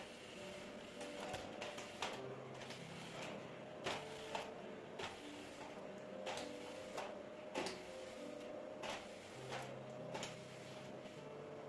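Irregular light clicks and knocks of objects being handled, over a low steady hiss.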